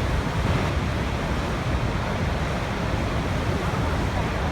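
Waterfall: steady, unbroken rushing of falling water, heavy in the low end.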